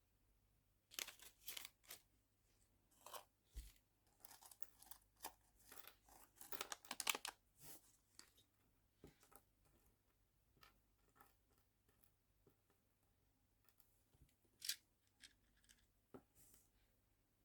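Quiet rustling, crinkling and small clicks of nail charms and plastic being handled during sorting. The sounds are busiest in the first half and grow sparse later, with one sharper click near the end.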